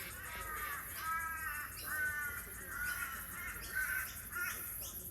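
Crow cawing repeatedly, about six harsh calls roughly a second apart.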